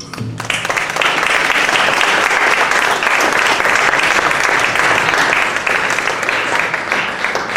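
Audience applauding: clapping swells up within the first second, holds steady, and thins out near the end.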